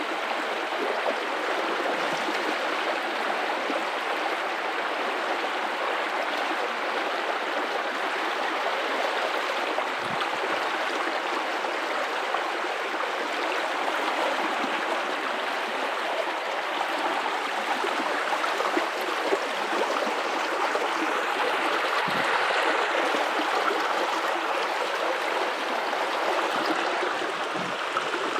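Guadalupe River water running steadily over rocks: an even, continuous rush with gurgling.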